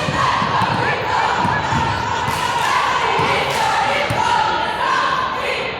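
A basketball bouncing on the court in irregular thuds during game play, with a crowd and players shouting and talking throughout.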